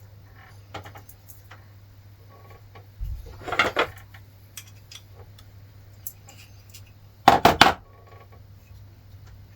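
Metal parts and tools clinking and clattering as they are handled, with a louder clatter about three and a half seconds in and three sharp knocks in quick succession near the end, over a steady low hum.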